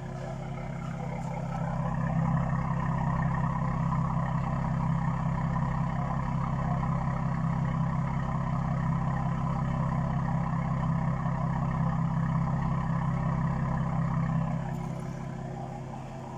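Toyota A90 Supra with a decat, modified petrol particulate filter and modified back box, its engine and exhaust running steadily. The note swells louder about two seconds in, holds even and eases back down near the end.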